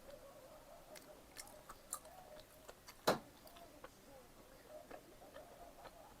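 Close-miked chewing of pizza, with small wet mouth clicks throughout and one sharper, louder click about three seconds in.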